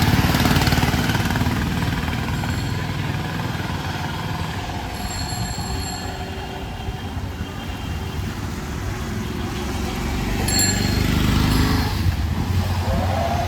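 Street traffic: motor vehicle engines running and passing, with a few short, high bell rings.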